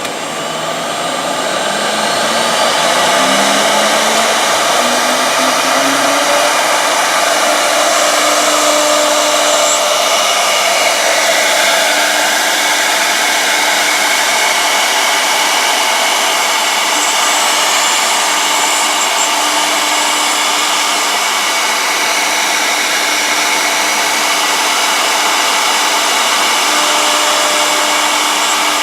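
Two-spindle 1325 CNC router running: a steady rushing whine with faint held tones. The pitch and level rise over the first few seconds, then hold steady.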